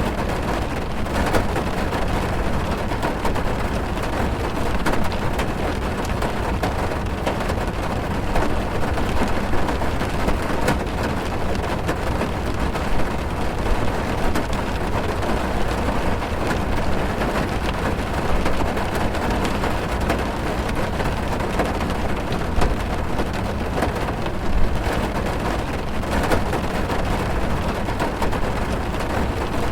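Steady heavy rain drumming on a car's roof and windows, heard from inside the car as a dense even patter with occasional louder drops.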